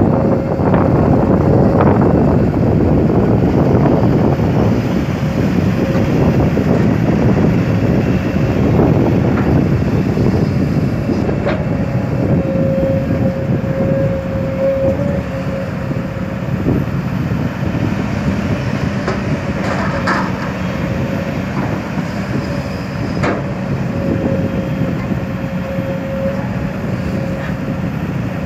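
Kobelco SK200 excavator working, its diesel engine running under load with a steady high whine over it and a few sharp knocks. Loudest in the first few seconds.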